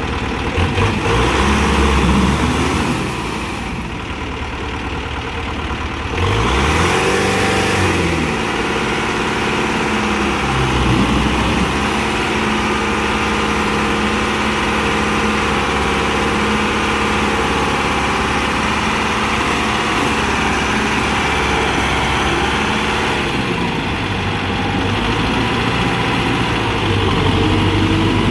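Kubota M6040SU tractor's diesel engine running under load while the tractor is stuck, its pitch rising and falling several times as it is revved, with a quieter spell a few seconds in.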